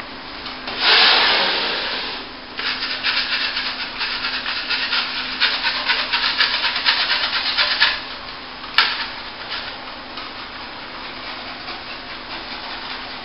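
Metal plastering scraper scraping excess plaster off the repaired surface. One long loud scrape comes about a second in, then rapid short scraping strokes for several seconds. A single sharp click follows, then fainter scraping.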